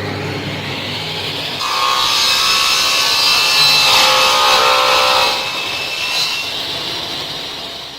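Power tool working material with a steady rasping noise; it grows louder about two seconds in and eases after about five seconds.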